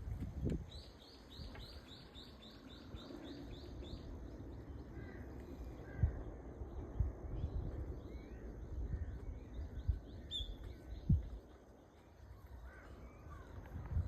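Small birds calling: a rapid run of short high chirps, about four a second, for the first three or four seconds, then scattered single calls. A few dull low knocks are heard now and then.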